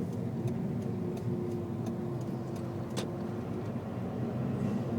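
Road and engine noise inside a moving car's cabin, a steady low drone with a faint steady hum over it. A single sharp click about three seconds in.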